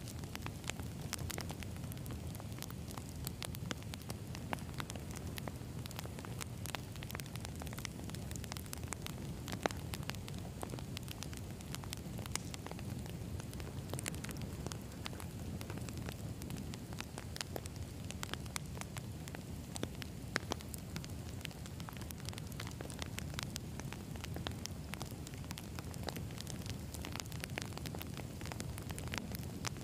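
Wood campfire burning, with a steady low rumble under constant crackling and snapping of the logs. A couple of louder pops come about ten and twenty seconds in.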